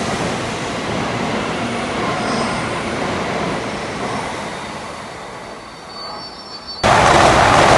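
Shinkansen bullet train running past a station platform, its rushing wheel and air noise slowly fading as the last cars clear. About seven seconds in it cuts abruptly to the much louder rush of another Shinkansen train passing close by.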